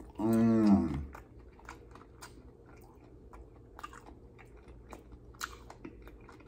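Close-miked chewing of pulled-pork nachos on tortilla chips: many small, irregular crunching clicks. A short hummed voice sound in the first second is the loudest part.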